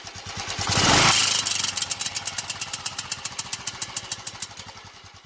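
Royal Enfield 500 Bullet single-cylinder engine running at low revs with a sharp, even clatter at about six beats a second, and a brief loud surge about a second in. This is the warm-engine, low-rev noise that sounds like misfiring but tinny, whose cause the owner does not know. The sound fades near the end.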